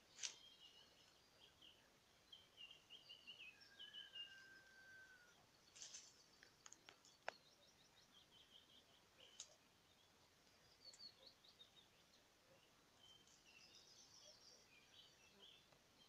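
Faint birdsong: several small birds chirping and trilling on and off, with one longer whistled note that falls slightly about four seconds in, over a faint steady hiss. A few sharp clicks sound near the middle.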